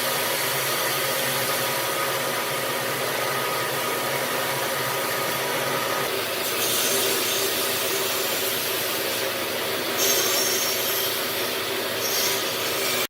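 Power tool running steadily on wood, with brief brighter stretches about six and ten seconds in.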